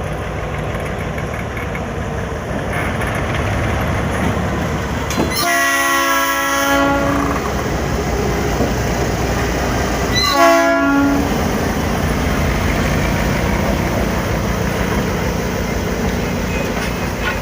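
Train locomotive running with a steady rumble while shunting, sounding two chord-like signal blasts: a longer one of about two seconds, then a shorter one about five seconds later.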